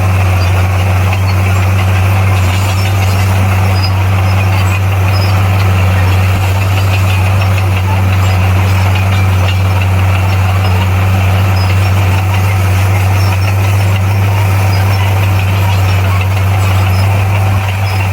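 Bulldozer's diesel engine running steadily, a constant low drone with no change in speed.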